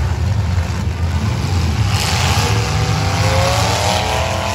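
Several demolition derby cars' engines running hard together with a deep rumble. About two seconds in a rush of noise joins, and one engine revs up with a rising pitch.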